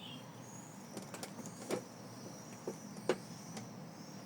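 Quiet handling sounds: about half a dozen faint, scattered clicks and light rustles from hands working a needle and thread on a stuffed felt toy.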